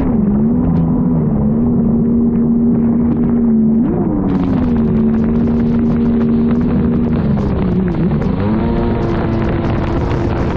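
Yamaha GP1200R jet ski's two-stroke engine running at a steady high pitch, with brief drops and swings in revs from throttle changes near the start, about four seconds in and around eight seconds in. Wind buffets the microphone throughout.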